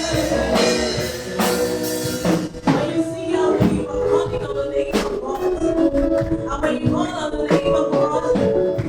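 Live gospel praise music: a band with drum kit playing, with singing over it.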